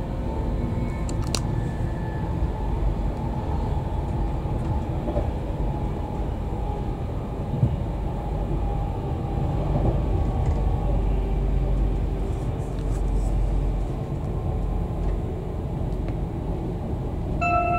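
Cabin sound of a Class 390 Pendolino electric train running at speed: a steady low rumble of wheels on track and the carriage body. Near the end an onboard chime starts, several steady bell-like tones sounding together.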